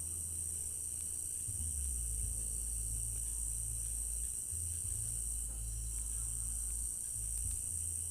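Crickets chirring in a steady, high-pitched night chorus. A low bass hum runs underneath, shifting pitch every second or two.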